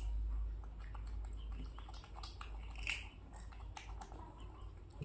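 Crisp chewing and small biting clicks of a toddler and a monkey eating cucumber pieces, over a low rumble, with a brief high squeak about three seconds in.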